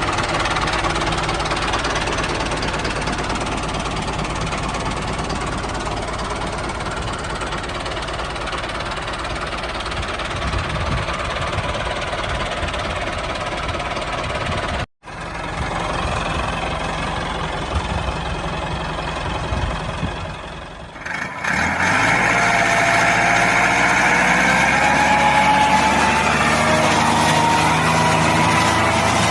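Small engine of a DIY mini tractor running steadily. After a brief break about halfway, a louder, higher whine made of several steady tones takes over about two-thirds of the way through.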